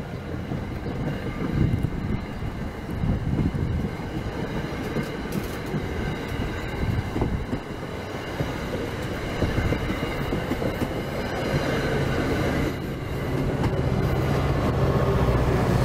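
Commuter train passing, its rail cars rumbling with irregular wheel clatter on the track. About twelve seconds in, a steady low drone comes in and grows louder, like a locomotive running under power.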